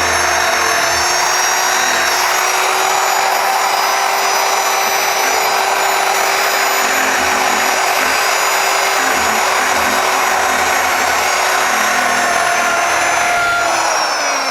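Handheld electric power tool running steadily while it grinds rust off a steel tractor wrench. Near the end it is switched off and its pitch falls as it spins down.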